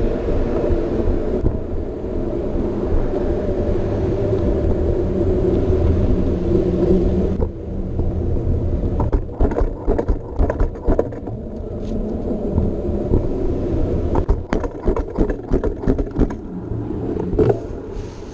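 Trek Marlin 7 mountain bike riding with the camera mounted on the bike: a steady rumble and hum of the tyres rolling. From about seven seconds in, rapid rattles and knocks from the bike.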